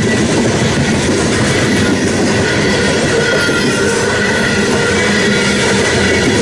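Train cars rolling past close by, a steady loud rumble and clatter of wheels on rail with a faint high wheel squeal running through it.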